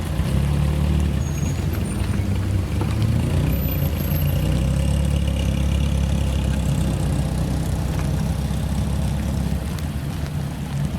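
Classic Japanese car engine running steadily at low revs, with no revving. It gets slightly louder right at the start.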